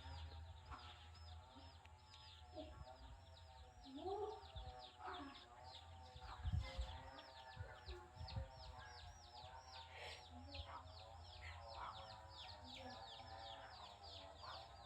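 Faint background birds calling: a steady run of short high chirps, several a second, each falling in pitch, over lower wavering calls and a low hum, with a couple of soft thumps.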